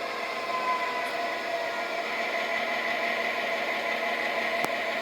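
Model train locomotive's electric motor running steadily with a whirring whine as it pulls the car along the track, with one sharp click about four and a half seconds in.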